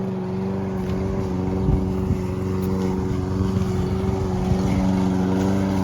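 Lawn mower engine running steadily while cutting weeds, a constant droning tone that grows slightly louder.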